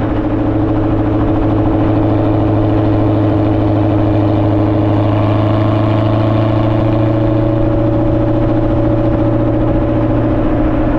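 Exhaust of a ProCharger-supercharged sixth-generation Chevrolet Camaro, the engine idling steadily.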